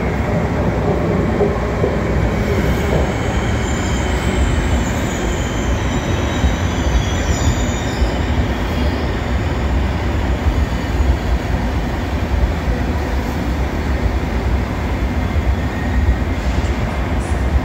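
Electric locomotive (Siemens Vectron EU46) and its Intercity passenger coaches pulling into a station platform, with a steady heavy rolling rumble of wheels on rails. Faint high squealing rides over it from about two to eight seconds in.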